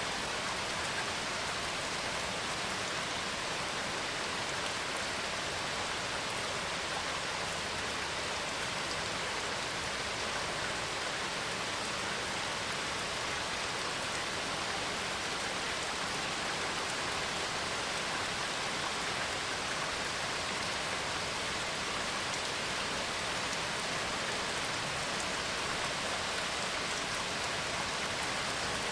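Steady heavy rainfall, an even hiss of rain with no thunder heard.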